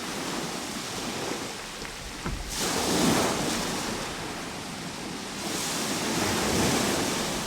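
Ocean surf: waves breaking and washing in, with two swells of surf, the first rising sharply about two and a half seconds in and the second building around six seconds in.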